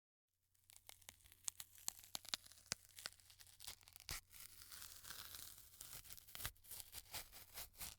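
Something being torn: a string of irregular crackling rips and sharp snaps, starting just under a second in.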